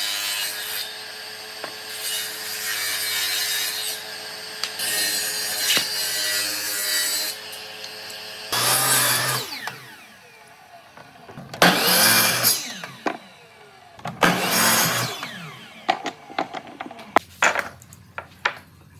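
A power tool working wood, running steadily for about eight seconds, then three short separate bursts of cutting and a few clicks near the end.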